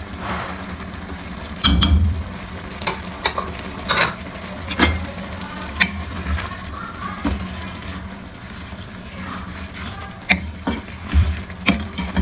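Minced beef and spinach sizzling in a metal kadai while a spatula stirs them, with sharp knocks and scrapes against the pan at irregular intervals.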